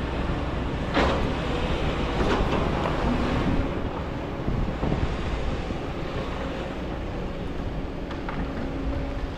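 Kobelco hydraulic excavator working in sand: a steady low diesel engine rumble with a faint hydraulic whine, and two sharper knocks about one and two seconds in.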